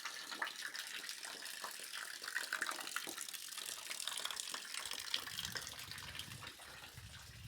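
Running water splashing and trickling steadily, with a low rumble joining about five seconds in.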